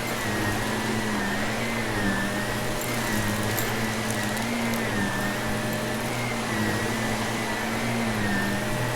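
Vacuum cleaner running over carpet, its motor whine wavering slowly up and down as it is pushed back and forth. A few crackles of grit being sucked up come about three seconds in.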